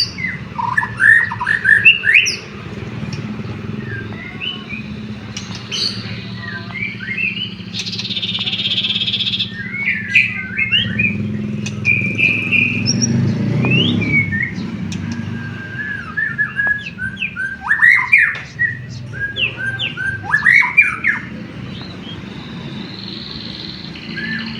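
White-rumped shama (murai batu) singing in quick bursts of chirps and sliding whistled notes, its song laced with canary-style phrases, over a low steady hum.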